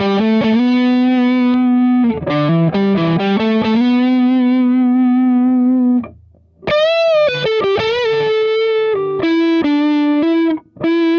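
SG-style double-cut electric guitar built from a kit, played through distortion: a lead line of sustained single notes with vibrato, a short break about six seconds in, then a string bent up and more held notes.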